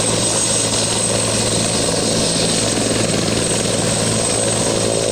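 Helicopter running close by, its rotor going with a steady rapid chop under a constant high whine, on the ground just before lift-off.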